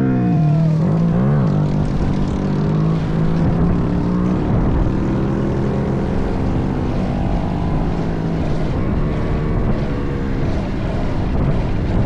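Small minibike engine running at a steady speed, dropping in pitch and picking back up briefly about a second in.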